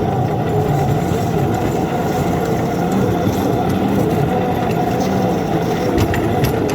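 Ride-on backyard railroad locomotive running along the track, pushing a snowplow through deep snow: a steady mechanical running noise, with a couple of sharp clicks near the end.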